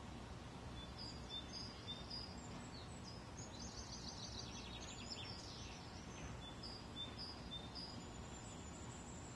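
Faint birdsong: small birds chirping in short high notes, with a quick trill of rapidly repeated notes in the middle, over a steady low background rumble.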